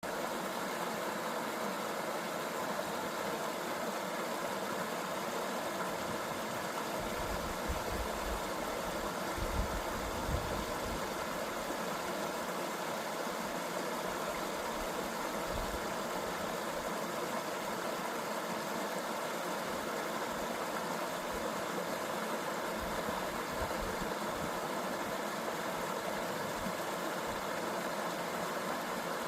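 Waterfall rushing, a steady, even roar of falling water, with a few brief low rumbles about eight to eleven seconds in.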